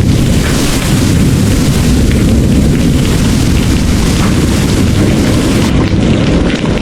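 Heavy rain pouring steadily, with a deep, continuous rumble of rolling thunder underneath.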